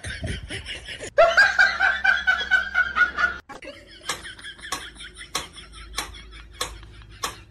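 A person laughs hard for about two seconds, then a mechanical pendulum metronome ticks steadily, a little under two ticks a second.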